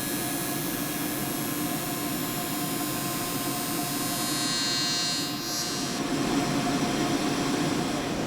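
Steady machine hum from factory equipment, with a high hiss over it that grows brighter around the middle and stops about six seconds in.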